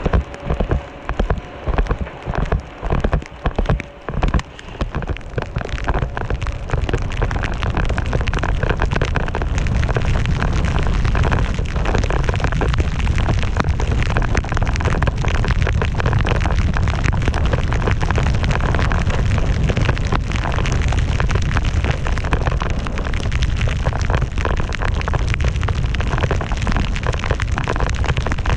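Wind buffeting a camera microphone and snow hissing under a rider sliding down through powder in a blizzard. For the first few seconds it comes in choppy gusts, then settles into a steady, deep rushing noise.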